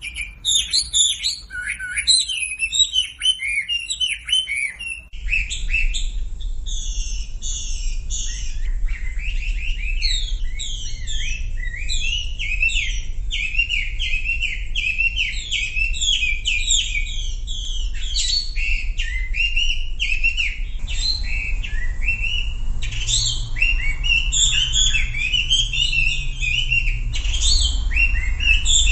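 Chinese hwamei (wambi) singing a long, rapid, varied song of whistled phrases, used as a training recording. About five seconds in the recording changes, and a low hum runs under the song from there on.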